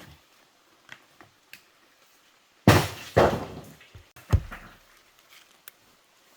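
Three heavy knocks close together, the first two about half a second apart and the third a second later, each trailing off briefly, with a few light clicks and taps around them.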